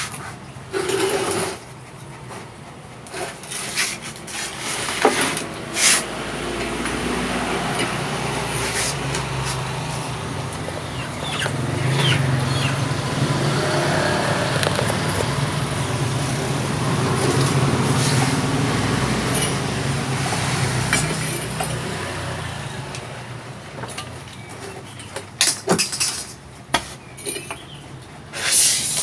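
An engine running steadily, swelling in the middle and easing off, with a few sharp knocks and clicks near the start and end.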